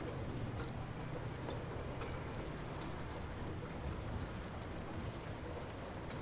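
Light rain falling steadily, a soft continuous patter with scattered individual drop ticks.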